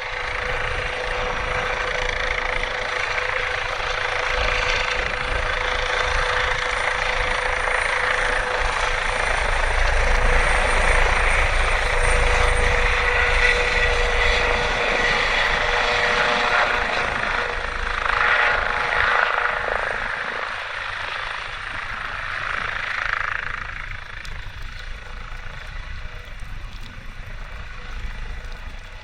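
Emergency medical helicopter running, its turbine and rotor noise carrying a steady whine. It grows louder toward the middle, then fades away over the last third.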